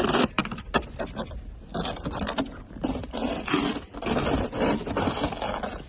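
Irregular scraping and brushing strokes of a snow brush or scraper clearing snow off a car.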